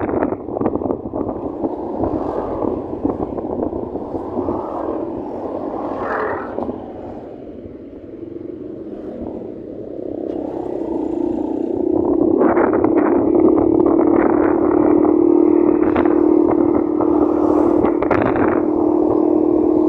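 Motorcycle on the move, engine running under rushing noise. About seven seconds in it eases off and gets quieter, then builds back from about eleven seconds to a steady engine drone.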